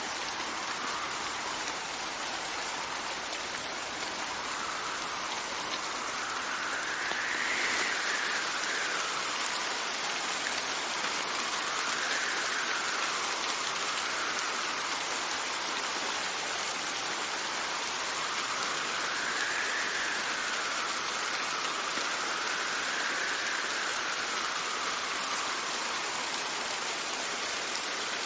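Steady rain hissing, with gusts of wind rising and falling in pitch several times over it.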